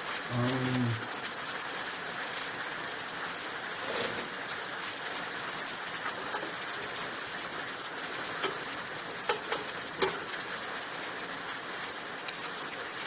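A few light, separate clicks and knocks of metal parts being handled on a Lister SR3 diesel's fuel injection pumps, over a steady hiss. A short hum of a voice comes about half a second in.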